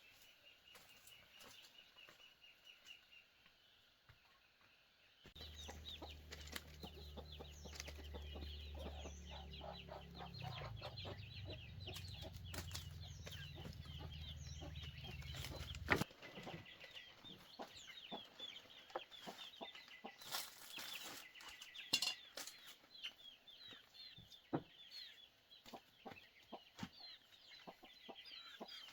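Chickens clucking faintly, with scattered short clicks and taps. A low steady hum comes in about five seconds in and cuts off suddenly around the middle.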